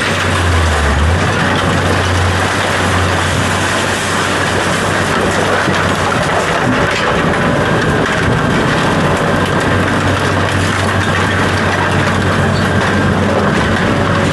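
A heavy vehicle's engine running steadily, with a constant low hum under continuous rattling noise.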